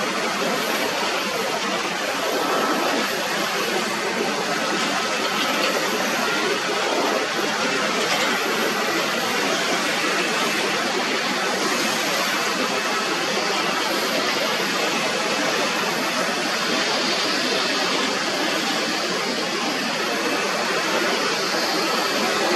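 Airliner jet engines heard as a steady, even rushing roar with no breaks.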